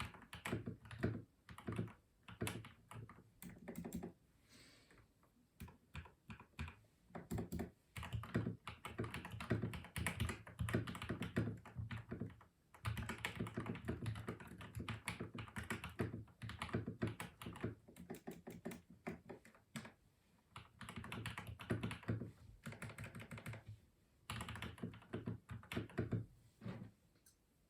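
Custom mechanical keyboard being typed on in fast bursts of keystrokes with deep, thocky key strikes, broken by short pauses.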